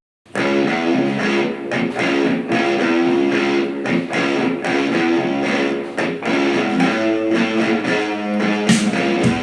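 Guitar music: after a brief break at the start, a guitar plays a steady run of plucked notes and chords.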